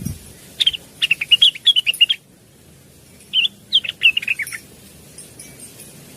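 Blue-winged leafbird (cucak wilis) singing two quick runs of rapid, chirping whistled notes, with a short pause between them.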